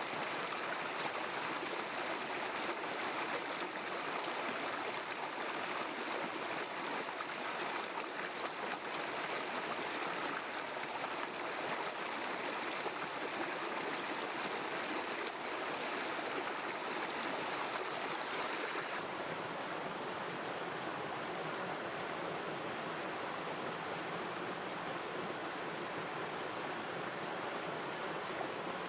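River water flowing over stones: a steady, continuous rushing and gurgling with no pauses.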